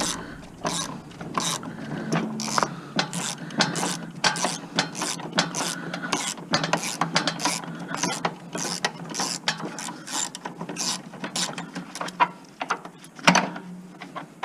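Ratchet wrench clicking in quick, uneven runs as bolts are worked loose from a table saw deck, with a louder knock near the end.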